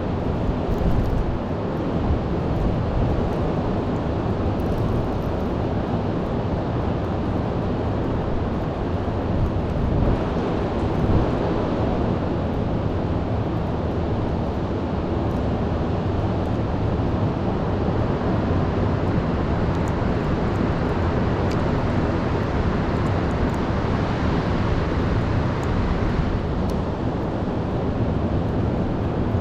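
Heavy storm surf breaking and rumbling steadily, with wind buffeting the microphone.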